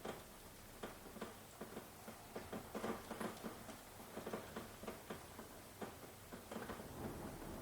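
Rain falling, with individual drops ticking and pattering irregularly on a hard surface over a faint steady hiss.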